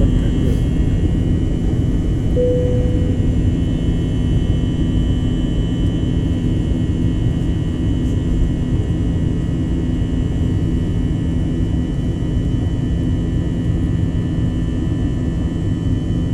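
Airliner cabin noise: the steady rumble of the jet engines and airflow heard from inside the cabin, with a few steady whining tones above it. A short single tone sounds about two and a half seconds in.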